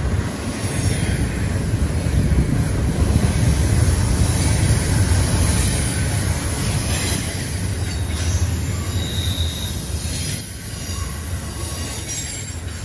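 Double-stack intermodal freight train rolling past: a steady low rumble of wheels on rail, loudest a few seconds in and easing after about ten seconds. A brief high squeal from the wheels comes about nine seconds in.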